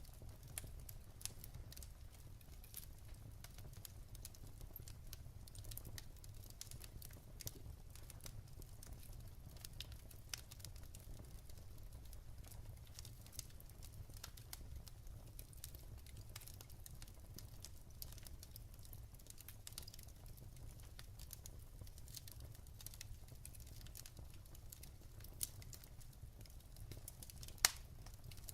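Wood fire burning in a fireplace, with logs crackling in irregular small snaps and one louder pop near the end, over a steady low rumble.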